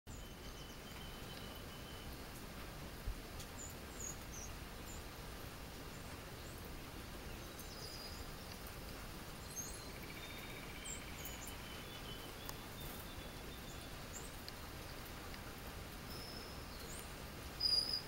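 Songbirds chirping and calling outdoors over a steady faint hiss of background noise: scattered short, high chirps, a brief trill about ten seconds in, and a louder chirp just before the end.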